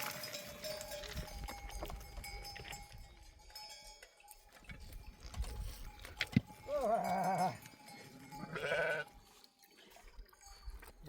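Bells on a grazing flock of sheep clinking and ringing. A sheep bleats twice with a wavering call, about seven seconds in and again near nine seconds.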